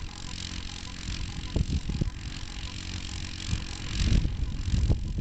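Small engine of a homemade single-wheel tractor running steadily, a little louder near the end.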